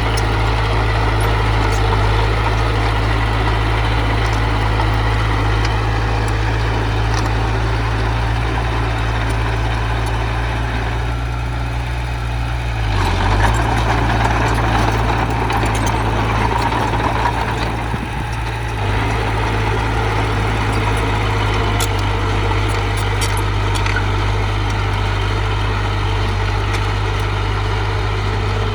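Diesel engine of earthmoving machinery running steadily with a low drone. It gets louder and harsher for several seconds around the middle, as if under load or revved, then settles back.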